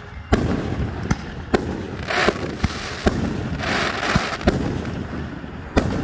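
Aerial fireworks going off: a quick run of about eight sharp bangs in six seconds, with two spells of crackling between them.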